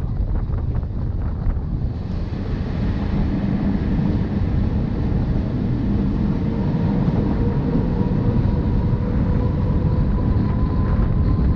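Rhaetian Railway narrow-gauge train running: a steady rumble of wheels on rail mixed with wind noise, with a few clicks in the first couple of seconds. From about two seconds in a faint whine joins and rises slowly in pitch.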